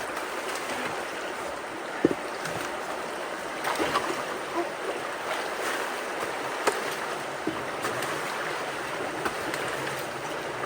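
Steady rush of creek water flowing through and around a culvert, with a few sharp knocks, the loudest about two seconds in.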